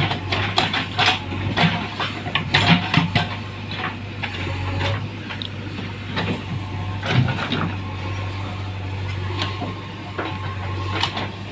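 Tractor engine running with a steady low drone, with irregular knocks and clatter over it, most frequent in the first few seconds.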